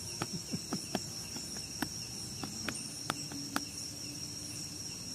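Crickets chirring steadily in a high, continuous night-time drone, with a dozen irregular sharp clicks in the first few seconds.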